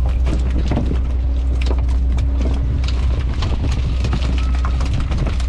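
Bottom trawler's diesel engine running with a steady low drone, with frequent irregular knocks and clatter on top.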